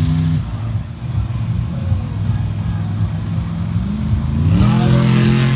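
Monster truck engine running unevenly at lower revs, then revving up in a rising pitch a little after four seconds in and holding loud at high revs.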